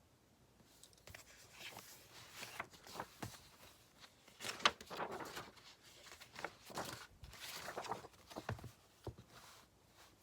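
Paper and stationery handled at a desk: irregular rustling and scraping strokes that start about a second in and stop shortly before the end.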